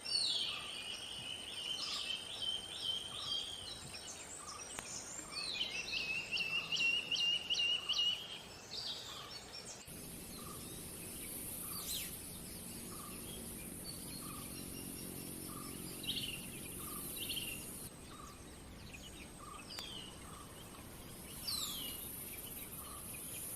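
Collared manakin calling: two long phrases of fast repeated notes in the first eight seconds, then scattered short falling notes. A faint regular ticking, about three ticks every two seconds, runs underneath, and a high insect-like hiss comes in about ten seconds in.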